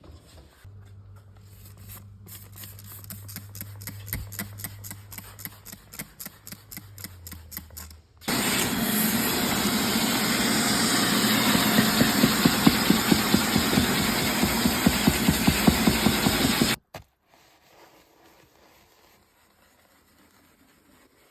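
Car-detailing power tools in two short cuts. First a motor hums steadily with a fast rhythmic ticking. Then a much louder hissing, rapidly pulsing machine runs for about eight seconds and cuts off suddenly.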